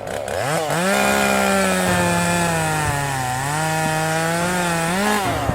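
Chainsaw engine running at high revs. It revs up about half a second in, holds fairly steady with a brief dip in the middle, revs again near the end and then cuts off.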